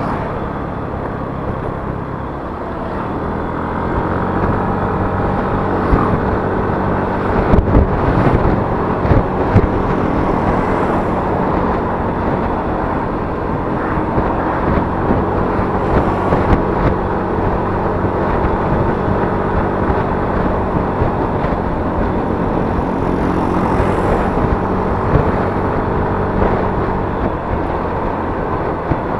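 Yamaha Mio S 125 automatic scooter's single-cylinder engine running under way, with road and wind noise. The engine picks up about three seconds in, and a few sharp knocks come around eight seconds in.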